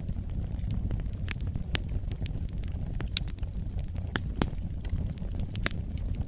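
Campfire burning: the wood crackles with frequent irregular sharp pops over a low steady rumble.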